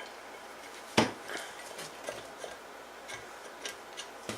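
Small metal parts of a go-kart torque converter clinking as they are handled and fitted: one sharp knock about a second in, then a few faint ticks.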